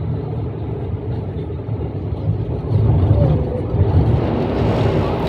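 Downtown Line C951A metro train running, heard from inside the carriage: a steady low rumble that grows louder about two and a half seconds in, with a faint gliding whine from the drive.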